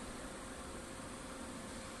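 Steady background hiss with a faint, constant high hum and no distinct events.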